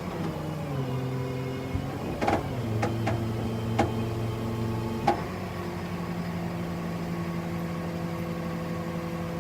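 Tow truck engine running, its pitch dropping in steps and then rising again about five seconds in, as under hydraulic load, with a few sharp metal clanks in the middle.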